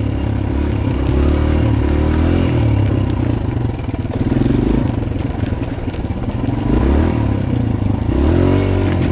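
Dirt bike engine running while being ridden, its revs rising and falling again and again as the throttle is worked, with rises about halfway through and near the end.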